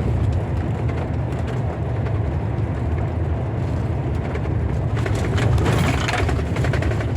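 Thunder rumbling low and continuously, swelling into a louder crackling roll about five seconds in.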